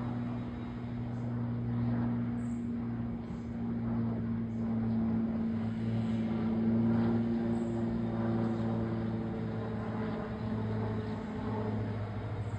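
Aircraft engine drone: a steady low hum with a few held tones, swelling slightly around the middle.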